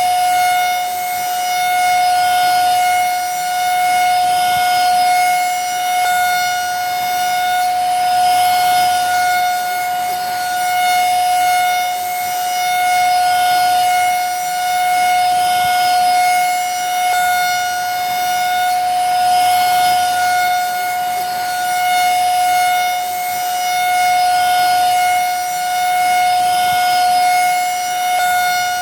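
Vacuum cleaner motor running continuously: a high, even whine over a rush of air, swelling and easing a little every couple of seconds.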